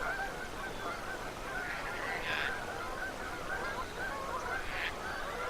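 A large flock of geese calling, many short honks overlapping into a continuous chatter, with an occasional louder, harsher call standing out.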